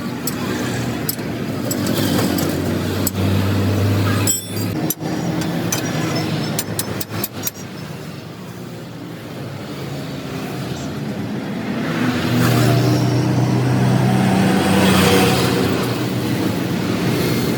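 Motor vehicle engine running, growing louder twice, with a few sharp clicks or knocks around the middle.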